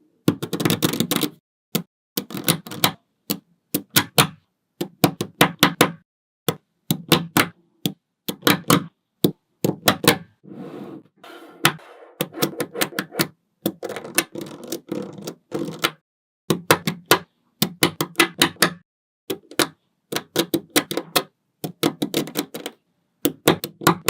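Small magnetic balls clicking and snapping together as they are placed, in quick runs of sharp clicks broken by short pauses.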